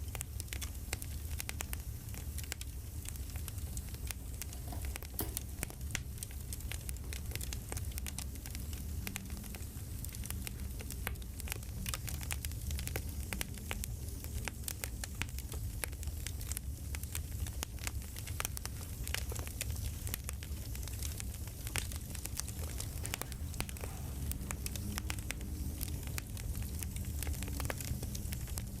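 Wood fire crackling: frequent small irregular pops over a low steady rumble.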